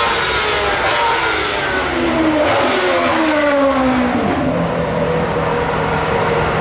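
Formula One car's 2.4-litre V8 engine at high revs, its pitch falling steeply about two to four seconds in, then settling into a steady note.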